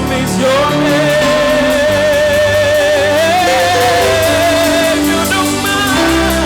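Live gospel praise music from a church band: held keyboard chords and bass over a steady drum beat, with one long wavering note held from about half a second in until about five seconds in.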